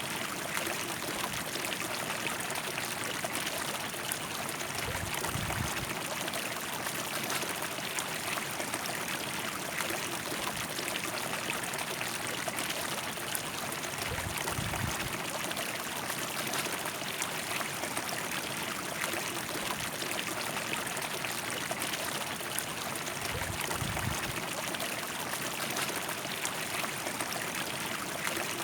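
River water rushing and splashing steadily. Three brief low rumbles come about nine seconds apart.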